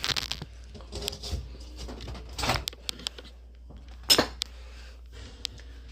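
A plate and marshmallow being set into a microwave, with rustling and a few sharp clicks and knocks about halfway through and about four seconds in, over a steady low hum.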